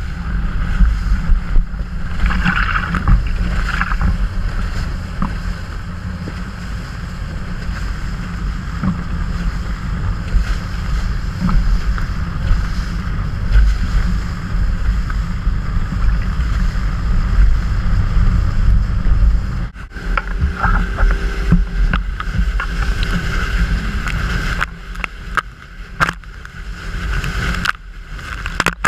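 Motorboat underway: a steady engine drone mixed with water noise and wind on the microphone. The low rumble drops off about two-thirds of the way through, leaving choppier, quieter water and wind noise.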